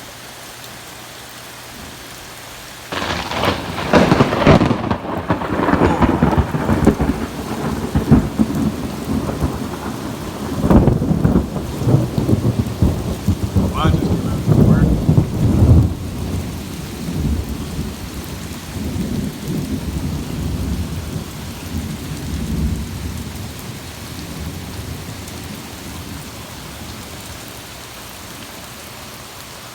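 Thunder directly overhead: a sudden crack about three seconds in, then rolling, crackling rumbles in waves, surging again around eleven seconds and fading over the next quarter minute. Steady heavy rain runs beneath it throughout.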